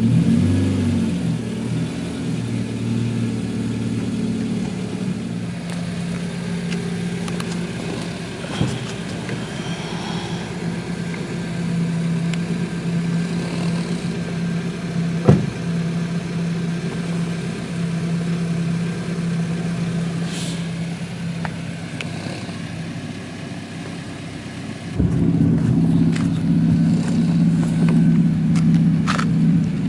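Honda Civic FN's engine idling steadily through a backbox-delete exhaust, with a couple of sharp knocks along the way. About 25 seconds in, the idle suddenly gets louder and fuller.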